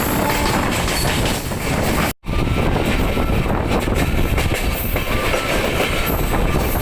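Paschim Express passenger train running along the track: a steady loud rumble of the coaches with the wheels clattering over the rails. The sound cuts out for an instant about two seconds in.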